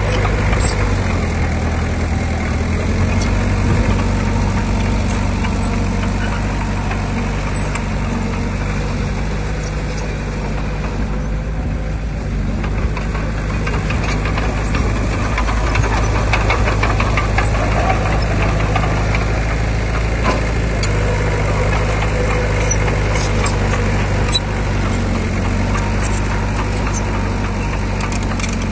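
Heavy diesel earthmoving machinery running steadily, its engine note low and even, with scattered light clanks and rattles through the middle and near the end.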